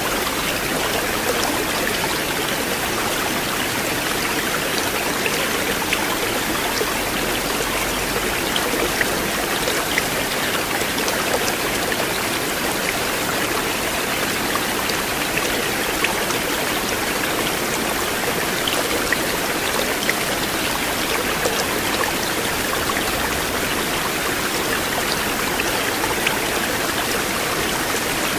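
A river or stream running steadily over rocks, with a continuous rushing and small splashes scattered through it.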